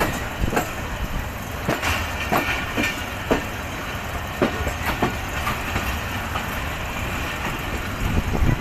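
Passenger train coaches running along the track, heard from an open carriage doorway: a steady rumble and rush with irregular sharp clacks of the wheels over the rails, most frequent in the first half.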